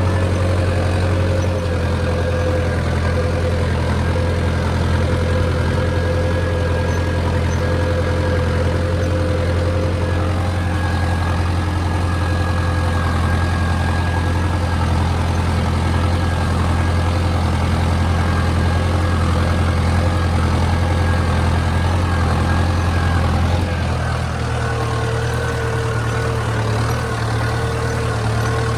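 Mahindra Arjun Novo 605 DI tractor's four-cylinder diesel engine running steadily with a deep hum. Its note shifts slightly near the end.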